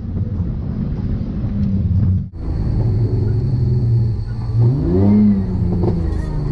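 BMW drift car's engine running at low revs, with one short rev that rises and falls about five seconds in. About two seconds in the sound breaks off briefly and goes on as heard from inside the stripped cabin.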